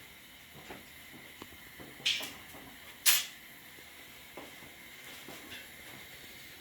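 Handling noise: a few light clicks and knocks, with a short scraping rattle about two seconds in and a sharper, louder knock about a second later, over a faint steady hiss.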